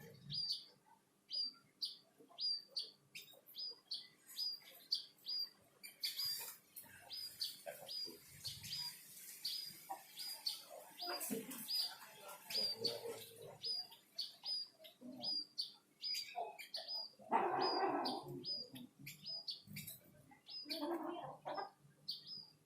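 Munias (burung emprit) chirping over and over: short, high, identical chirps about two a second. A louder, lower sound breaks in about seventeen seconds in.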